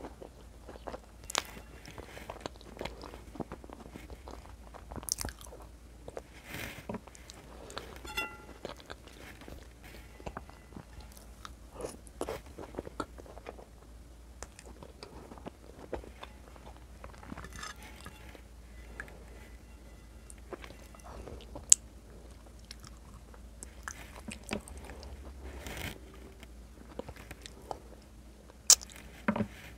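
Close-miked eating sounds of a person chewing a mouthful of white beans and meat in red sauce, with wet mouth clicks, smacks and crunches at irregular intervals. Two sharp clicks stand out, one about two-thirds of the way through and one near the end.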